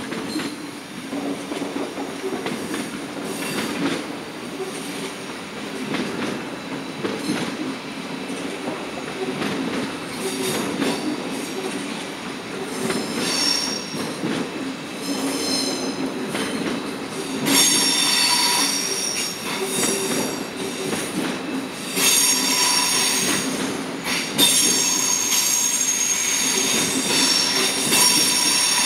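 Passenger train rolling slowly past over the yard's switch tracks: a low rumble with wheel clicks. High-pitched wheel squeal sets in about halfway through and grows louder and steadier toward the end.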